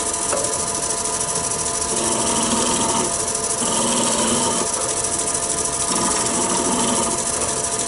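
Wood lathe running with a steady hum while a roughing gouge shaves the spinning elm blank in light smoothing cuts. The cutting swells and fades in several passes.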